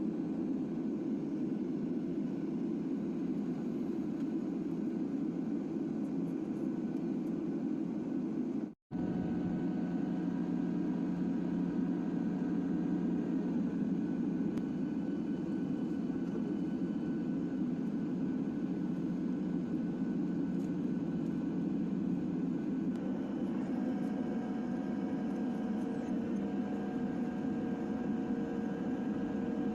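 Steady drone of a jet airliner heard from inside the cabin, with faint steady tones over it. The sound cuts out for a moment about nine seconds in.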